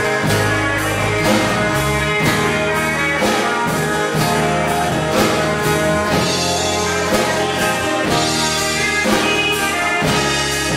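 Full-band instrumental break in an original song: drum kit keeping a steady beat of about two hits a second under sustained instruments, with no singing.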